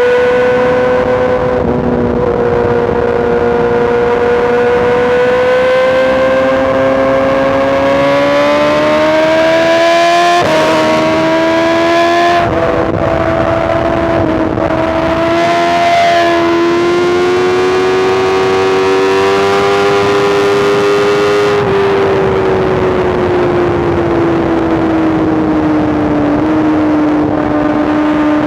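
BMW S1000RR inline-four superbike engine through a full Arrow exhaust, riding at highway speed. Its pitch climbs steadily, drops briefly twice about ten and twelve seconds in as it shifts up, rises again, then falls away as the bike slows and settles steady near the end, with wind rushing past.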